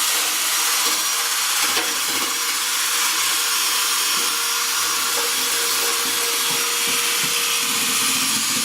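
Electric drill spinning a wire wheel against the inside of a steel VW fuel tank, scouring out rust and crud: a steady, unbroken scraping whir.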